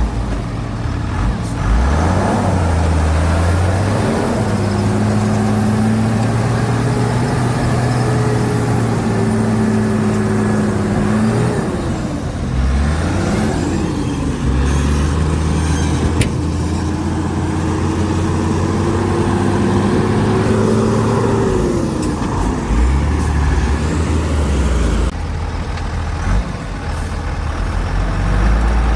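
Shantui DH17C2 bulldozer's diesel engine working under changing load, its pitch dipping and rising again several times as it is throttled down and back up.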